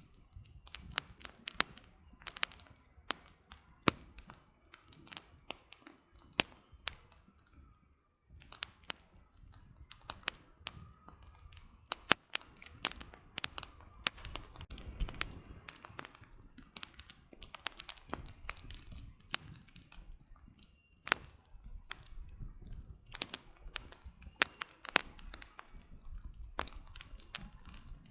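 Wood fire crackling, with sharp irregular pops and snaps of burning firewood over a soft low rumble of the flames.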